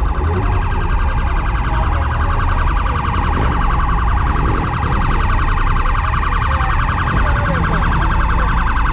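Police car siren sounding a rapid, fast-pulsing electronic warble, held steady over a low rumble.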